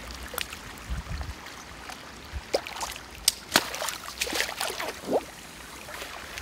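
Water splashing and dripping as a landing net holding a large carp is worked through the water and lifted out, with scattered short splashes and drips and a few louder splashes around the middle.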